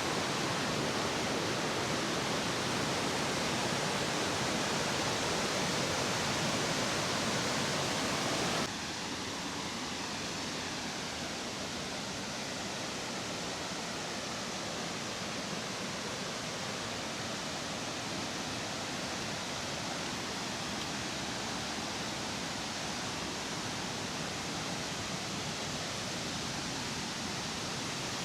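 Steady rush of heavy falling water from the Curug Malela waterfall. About nine seconds in it drops abruptly to a slightly quieter, duller rush, then holds steady.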